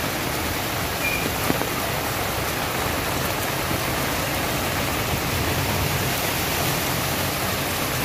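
Heavy typhoon rain falling steadily: a dense, even hiss.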